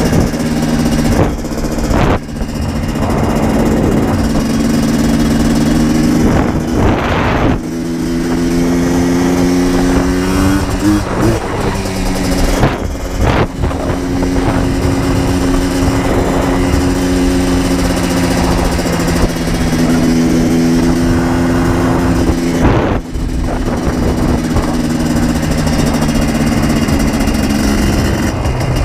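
Yamaha Blaster 200 two-stroke single-cylinder ATV engine running under way, its pitch wavering up and down with the throttle. There are a few brief drops in the engine note along the way, and the last one comes near the end.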